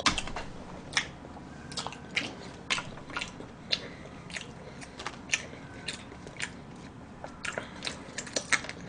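Close-miked chewing of moist chocolate cake with raisins: irregular sharp mouth clicks, about two a second.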